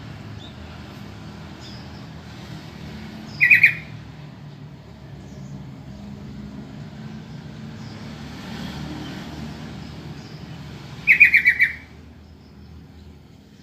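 Sooty-headed bulbul (trucukan) calling: two short bursts of quick chattering notes, one about three and a half seconds in and another about seven seconds later, over a steady low background rumble.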